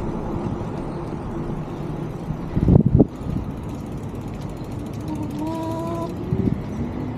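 Bicycle freewheel hub ticking rapidly as the e-bike coasts, over steady wind and tyre noise, with a loud knock about three seconds in as the bike goes over a bump. Near the end a motor tone rises in pitch.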